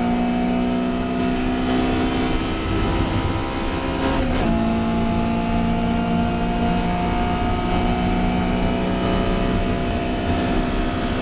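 Touring race car engine at high revs under acceleration, its note climbing slowly as it pulls through a gear. About four seconds in the note breaks briefly and drops for an upshift, then climbs again.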